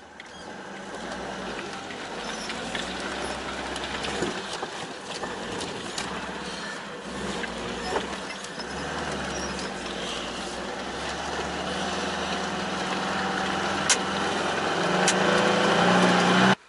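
Lada Niva driving along a rutted dirt track: a steady engine hum and road noise with scattered knocks, getting louder toward the end.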